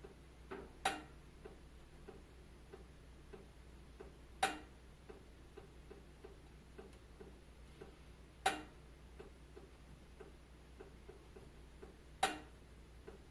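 Wood fire crackling in a fireplace: a run of faint ticks, two or three a second, with a louder pop about every four seconds.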